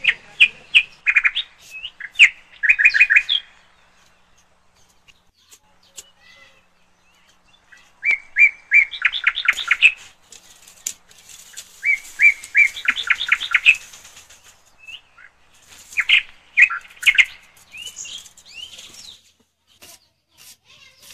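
A bird chirping in several short bursts of quick, repeated high notes, with scattered faint clicks between them.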